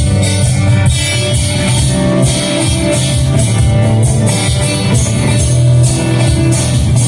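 Live band playing an instrumental passage: guitar and bass over a steady drum beat with cymbals.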